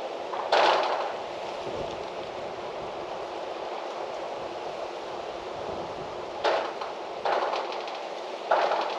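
Steady wind blowing outdoors, broken by four short, louder rustling bursts, the loudest about half a second in and three more close together near the end.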